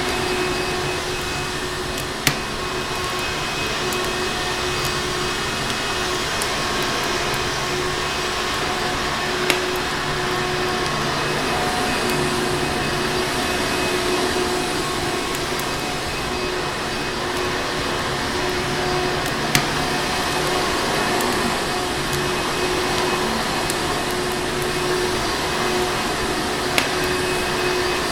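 Vacuum cleaner running steadily, an even rushing noise with a constant motor hum. Four sharp pops from a crackling wood fire stand out over it, spaced several seconds apart.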